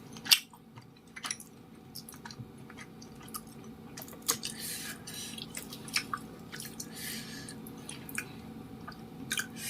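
Close-miked mouth sounds of chewing cilok, chewy tapioca-starch balls, with irregular sharp clicks throughout and a couple of short hissing noises in the middle.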